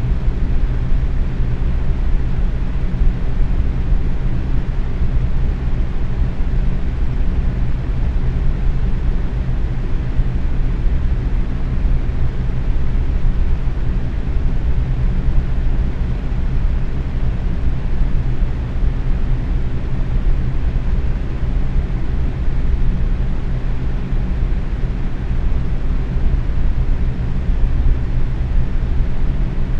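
Box fan running steadily at medium speed: an even whoosh of moving air with a low motor hum underneath, unchanging throughout.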